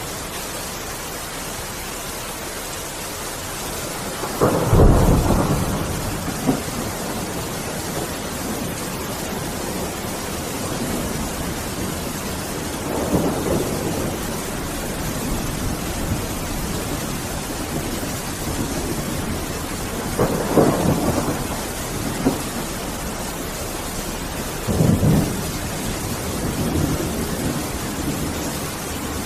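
Steady heavy rain with thunder rumbling four times. The loudest peal comes about five seconds in, and smaller ones follow near the middle and toward the end.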